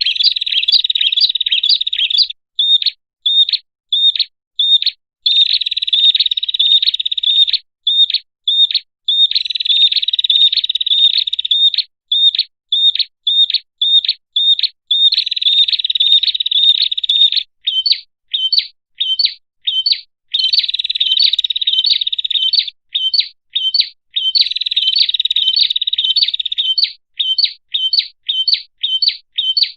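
Prenjak (prinia) song played as a lure call: stretches of rapid, buzzy trilling alternate with runs of separate sharp, high chirps, about two to three a second, coming faster in the later runs.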